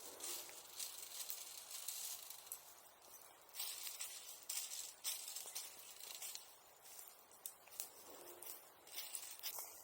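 Bonfire embers hissing softly, with many small sharp crackles and ticks.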